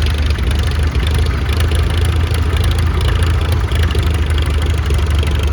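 Vintage farm tractor engines running steadily at low speed, a continuous deep rumble with no pauses.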